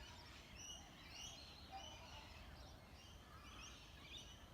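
Faint birdsong: short, high chirping notes repeating irregularly over a low background rumble.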